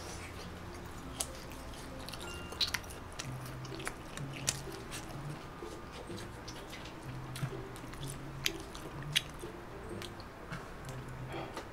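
Close-miked chewing of roast lamb: wet mouth smacks and sharp clicks at irregular moments, a few standing out loudly.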